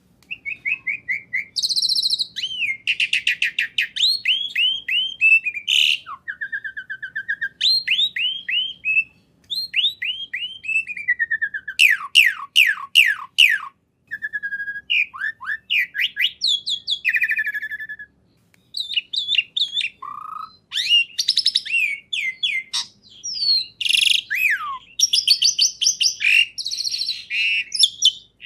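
A songbird singing a long, varied song of rapid chirps, trills and quick downward-sweeping whistles, in bursts separated by short pauses.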